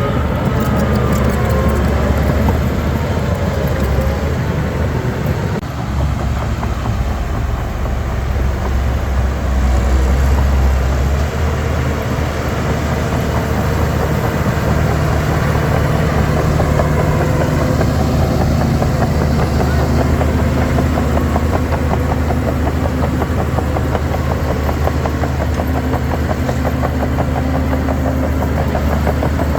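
Heavy diesel engine of earthmoving machinery running steadily and loudly. It grows louder for a few seconds about seven to eleven seconds in, then its pitch shifts a couple more times as the load changes.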